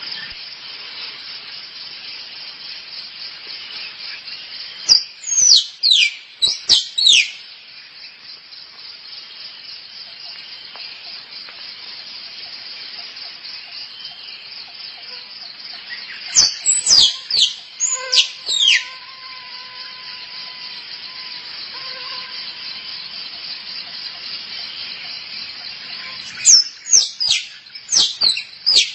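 Squirrel calls used as a lure: three bouts of quick, sharp, high squeaks, each falling in pitch, coming about every ten seconds. Steady high insect chirring runs under them.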